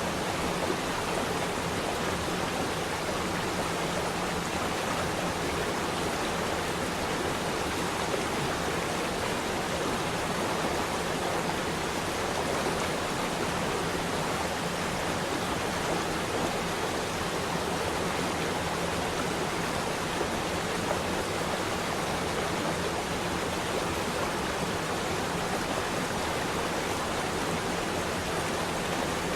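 Running water flowing steadily, an even unbroken rush with no separate splashes or drops.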